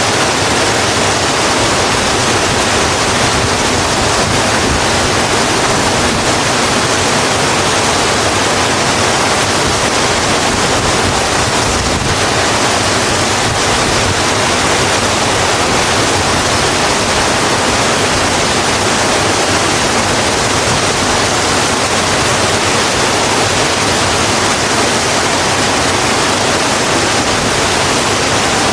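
Steady heavy rain, an even hiss with no single drops or other events standing out.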